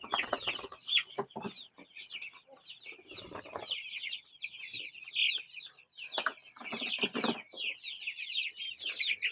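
A flock of young Cornish Cross meat chickens peeping, many short high chirps overlapping without a break, with some rustling and light knocks in among them.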